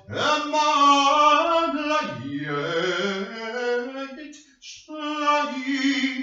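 A single unaccompanied voice singing or chanting, holding long notes and sliding up and down in pitch, with a short break a little past the middle.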